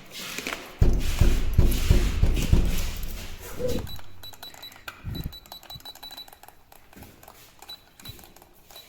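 A quick run of heavy thumps for about two seconds, then a few single knocks, with faint ticking and a thin high beeping sounding on and off in the second half.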